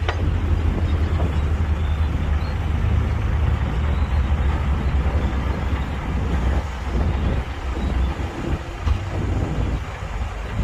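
Heavy diesel engine of earthmoving machinery running with a deep, steady rumble that eases somewhat in the last few seconds.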